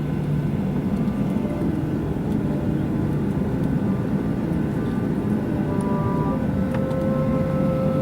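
Steady cabin noise of a jet airliner in flight: a continuous low engine and airflow rumble with faint steady engine tones over it. A new tone joins a little past halfway.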